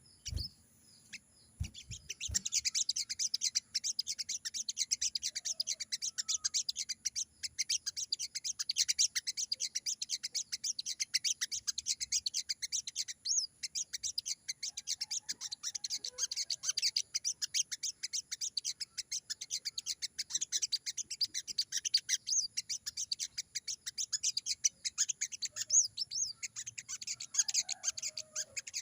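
Little spiderhunter (sogon) calling excitedly in a fast, unbroken stream of sharp high chips and chatter, starting about two seconds in after a few soft knocks.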